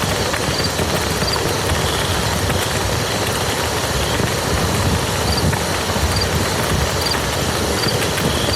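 Steady rain falling on a muddy field: a dense, even hiss made of countless small drop impacts.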